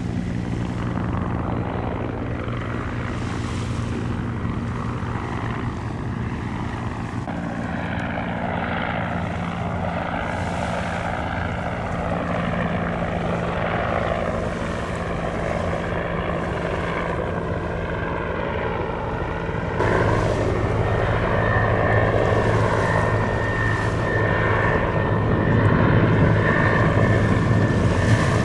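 A steady engine drone with a constant pitch. About twenty seconds in it turns abruptly louder and lower.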